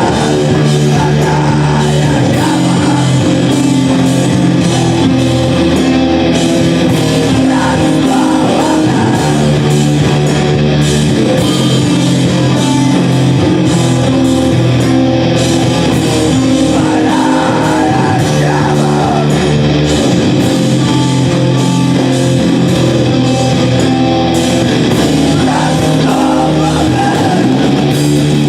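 Loud live rock band playing: guitars and drums in a dense, unbroken wall of sound, with a voice singing over it.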